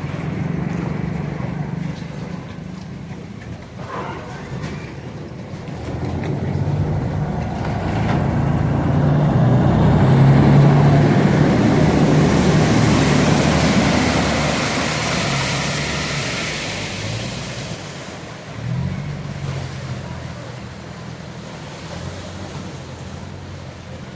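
Street traffic: motor vehicle engines running steadily, with one vehicle passing close, its engine growing louder to a peak about ten seconds in and then fading, along with a hiss that rises and dies away between about twelve and seventeen seconds.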